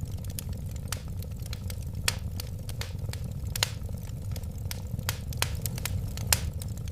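Wood fire crackling: irregular sharp pops and snaps over a low, steady rumble of burning, with a couple of louder pops midway and near the end.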